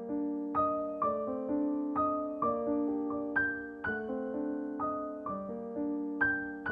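Background piano music: gentle notes struck about twice a second, each ringing and fading.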